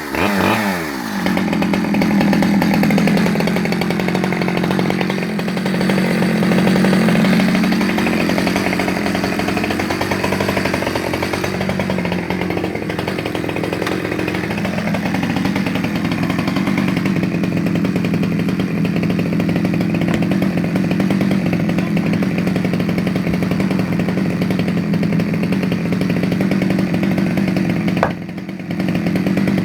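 Stihl 010AV 37cc two-stroke chainsaw running just after a warm restart. Its engine speed falls right after it catches, wavers up and down for the first dozen seconds, then holds steady, with a brief dip near the end.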